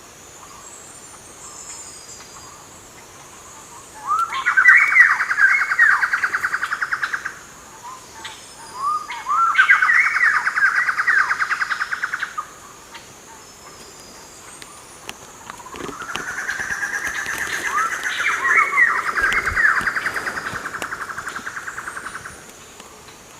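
A bird singing three long, fast trilling phrases, the third the longest and opening with a rising sweep, with faint high chirps behind.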